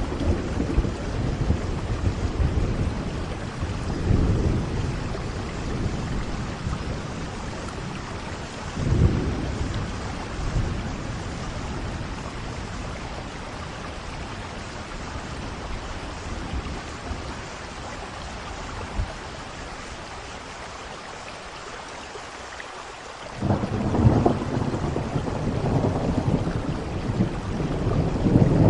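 Steady rain with rolling thunder: low rumbles come and go in the first ten seconds, die down to rain alone for a while, then a louder roll of thunder breaks in suddenly near the end and keeps building.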